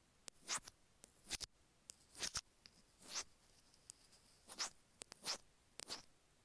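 Stainless steel ear pick scraping the grooves of an iPhone earphone microphone, heard close up through that microphone: about seven short gritty strokes, roughly one a second, with a few small clicks between them.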